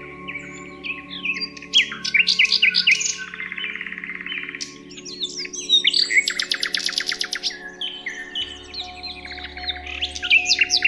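Several songbirds chirping and singing, with a fast trill of rapid repeated notes in the middle, over a soft sustained music bed.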